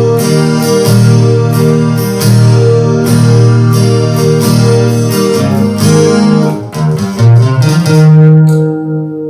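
Acoustic-electric guitar strummed in a basic rhythm through a Landscape Angel Chorus pedal and amplifier, with the chorus effect switched on. A last chord near the end rings out and fades.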